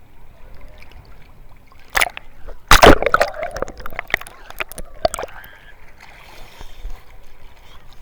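Sea water splashing and sloshing close to the microphone. Two loud splashes come about two and three seconds in, followed by smaller splashes and clicks.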